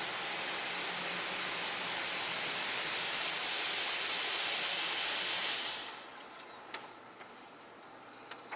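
Water spray from a Karcher automatic car wash gantry hitting the car, heard from inside the cabin as a steady hiss. It swells a little, then stops suddenly about six seconds in, leaving a few faint ticks.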